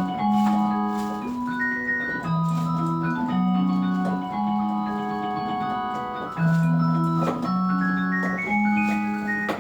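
Instrumental keyboard music: a melody of held notes over a bass line that moves to a new note about once a second.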